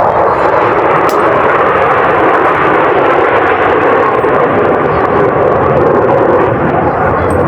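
Loud, steady roar of jet aircraft engines overhead, slowly sinking in pitch.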